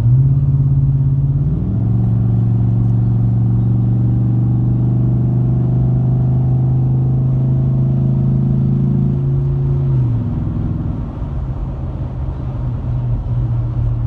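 2014 Ford F-150's 5.0-litre Coyote V8 with a Roush catback exhaust and Roush cold air intake, droning steadily while the truck drives. The pitch dips briefly about a second and a half in, then holds and creeps up until about ten seconds in, when the engine eases off and the sound drops.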